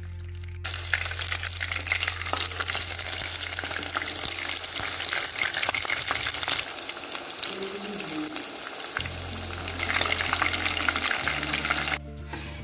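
Chicken patty shallow-frying in hot oil: a loud, dense crackling sizzle that starts suddenly about half a second in and stops abruptly near the end, with background music underneath.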